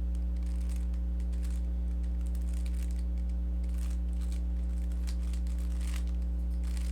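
Rubik's cube being turned through an algorithm: faint, irregular plastic clicks and rasps of the layers, over a steady electrical hum.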